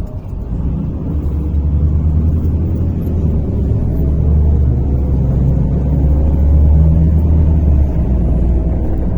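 MAZ-103 city bus engine and drivetrain, heard from inside the passenger cabin: a heavy low rumble that grows louder, with a whine rising in pitch over a few seconds as the bus gathers speed.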